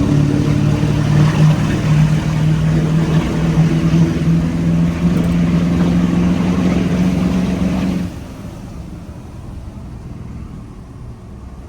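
A 2004 LB7 Duramax 6.6-litre turbodiesel V8 with a 5-inch exhaust pulls under load, its note rising slowly in pitch as the truck accelerates. About eight seconds in, the throttle comes off and the sound drops suddenly to a much quieter run.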